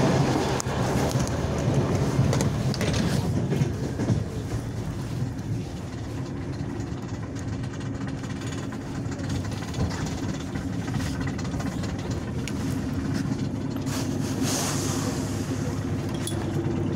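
Steady rumble and hum of a regional passenger train running, heard from inside the carriage, louder for the first few seconds and then even, with a few scattered clicks.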